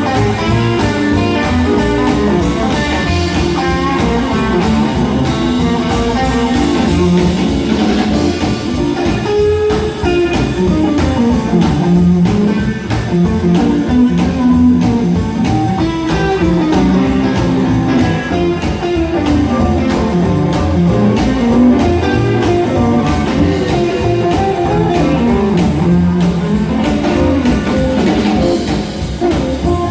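Live band playing an instrumental guitar break in a blues style: electric guitar lines over bass and a steady drum beat.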